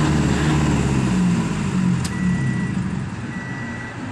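Toyota Hiace van engine running after a slow, hard start, its low hum dying away about two seconds in. Two short, faint high beeps follow.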